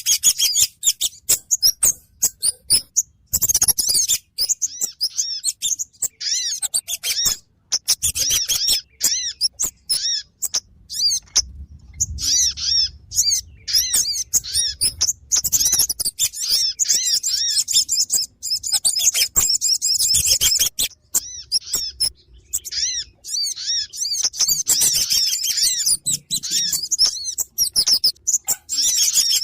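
Bird-trapping lure recording of small songbirds, kemade and sogon: rapid runs of high, thin chirps and twitters, broken by short pauses and picking up again.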